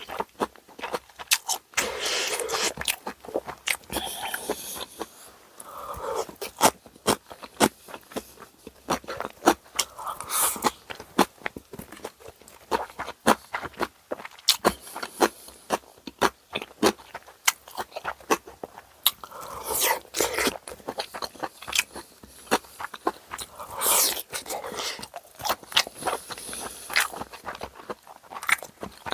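Close-miked eating of bossam, boiled pork wraps: steady wet chewing with many sharp mouth clicks, and several longer, louder bites and crunches spread through.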